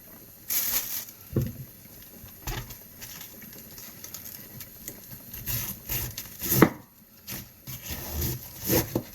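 Kitchen knife cutting the core out of a head of cabbage, with irregular crunching cuts, knocks and rustling of the leaves.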